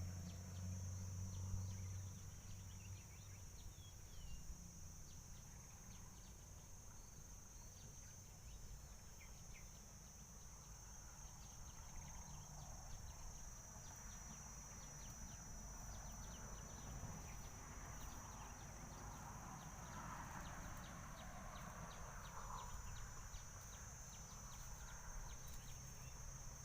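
Faint, steady high-pitched chorus of insects droning without a break, over quiet outdoor ambience.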